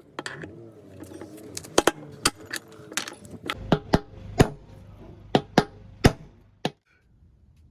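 Irregular sharp metallic knocks and clinks from hand tools on metal washing-machine parts during drum-bearing replacement, about a dozen in six seconds, stopping abruptly near the end.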